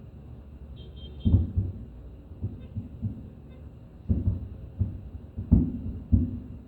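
Fireworks shells bursting in the distance, heard as an irregular series of low booms with short rumbling tails.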